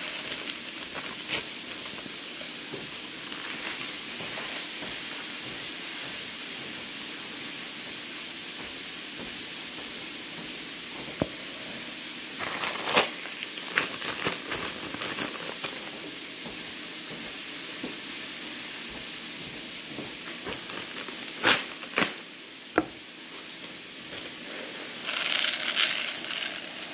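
Pork chops frying in hot grease in a pan, a steady sizzling hiss throughout. A few sharp knocks and clicks come about halfway and again about two thirds in, and a plastic bag rustles near the end.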